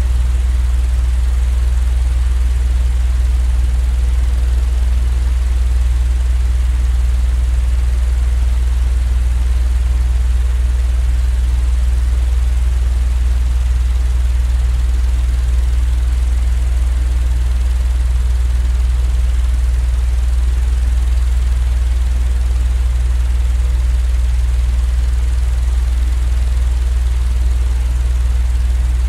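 Continuous deep rumbling noise for sleep, unchanging throughout, with a faint even hiss above it.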